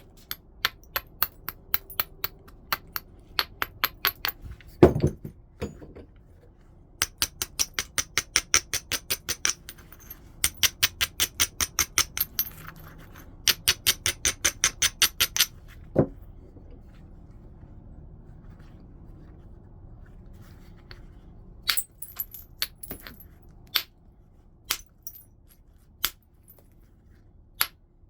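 Flintknapping: a stone being worked with quick runs of sharp clicking strokes, about five a second, broken by two heavier knocks about five seconds in and again about sixteen seconds in. Scattered single clicks come near the end.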